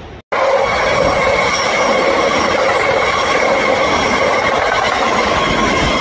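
Train running, with a steady squeal of wheels against the rails over its running noise. It starts abruptly after a brief dropout.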